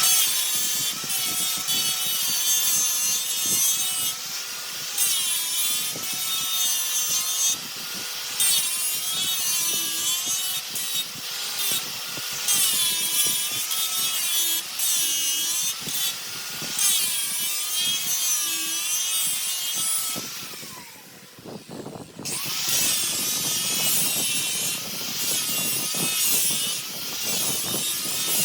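Turning tool cutting a spinning jackfruit log on a wood lathe: a steady hiss of shavings with a wavering squeal from the tool on the wood. The cut stops briefly near three-quarters of the way through, then resumes.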